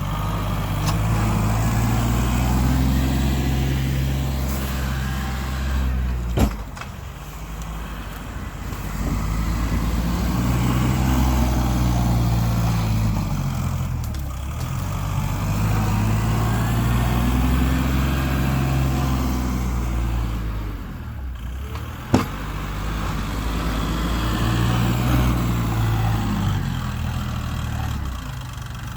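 A vehicle engine working, revving up and easing off again and again in cycles of about six to seven seconds, with a sharp clank about six seconds in and another about twenty-two seconds in.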